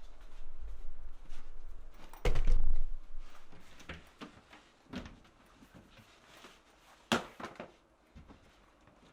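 Scattered knocks and clicks of things being handled, with a heavier thud about two seconds in and sharper clicks later on.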